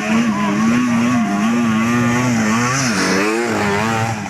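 Trail motorcycle engine running under load, its revs wavering up and down with a dip and rise about three seconds in.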